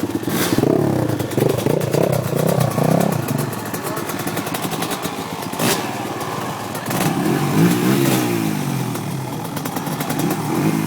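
Dirt bike engines revving, their pitch climbing and dropping again and again as the bikes pull away and run through the gears, with a few sharp clicks along the way.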